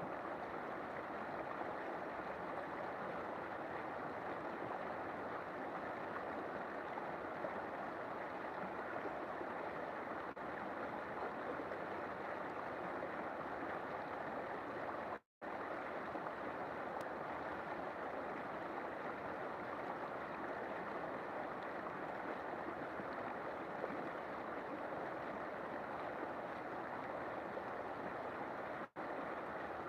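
River water flowing: a steady, even rushing and gurgling. It cuts out for an instant about halfway through.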